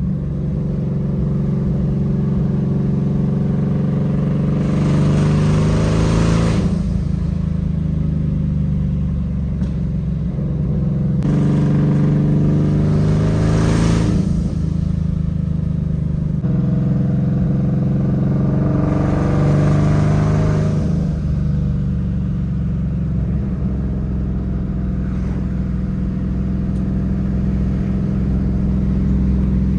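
Twin-turbo 2020 Shelby GT500's 5.2-litre V8 running at low revs on the street, with three spells of acceleration where the engine note climbs and grows louder, a few seconds apart.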